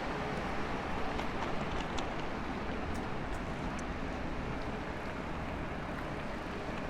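City street ambience: a steady wash of passing road traffic, with a few faint clicks.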